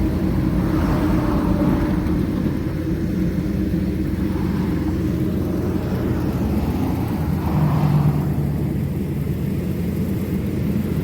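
Horizontal directional drill rig's engine running steadily under load during the pullback, with a brief swell about eight seconds in.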